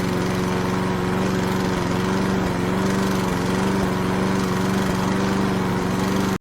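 Small lawn mower engine running at a steady drone, then cutting off abruptly.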